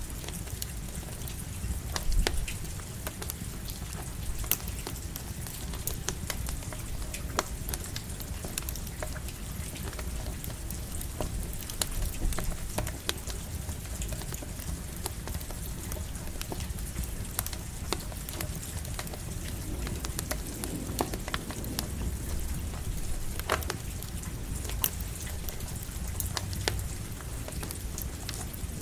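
Campfire crackling with scattered sharp pops, over a steady hiss of light rain and a low rumble.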